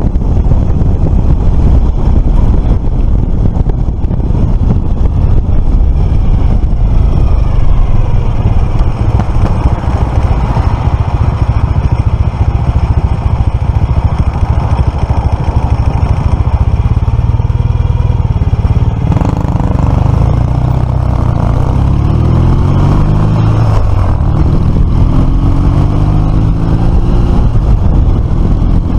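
Suzuki FL125 Address scooter's single-cylinder engine running at road speed under loud wind rush, heard from on board. About two-thirds in, the engine note drops, then rises again as it picks up speed.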